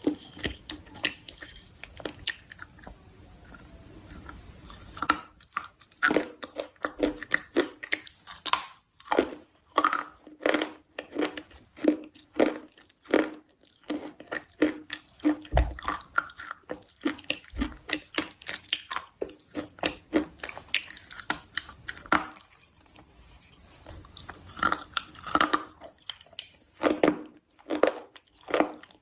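A person chewing crunchy food close to the microphone, in runs of sharp crackling crunches with a couple of quieter pauses between mouthfuls.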